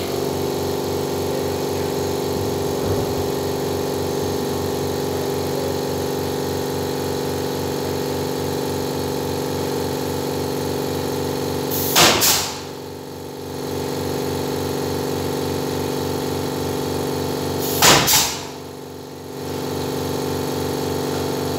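A motor or engine running steadily with a fast, even low pulse, interrupted twice by a short, loud burst of noise, once just past halfway and once near the end.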